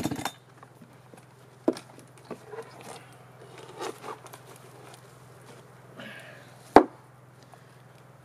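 A chainsaw's engine drops in pitch and cuts out at the very start, followed by scattered light knocks and taps, with one sharp, louder knock near the end. A faint steady low hum runs underneath.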